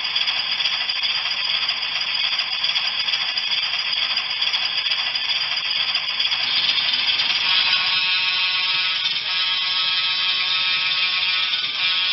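HO scale ALCO RS3 model diesel locomotive running along the track: a steady rattle and whir of wheels and small motor, joined about eight seconds in by a more tonal hum.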